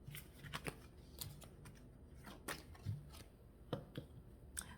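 Tarot cards being handled and gathered on a table: a few scattered light taps and clicks.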